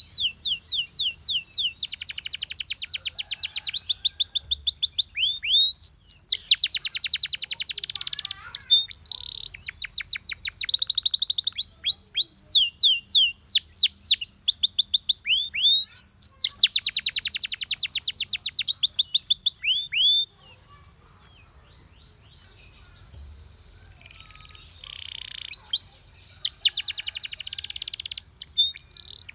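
Domestic canary singing: a long song made of phrases, each a fast run of one repeated note, many of them quick downward sweeps, changing from one phrase to the next. The song stops about twenty seconds in, then after a short pause starts again softly and grows louder.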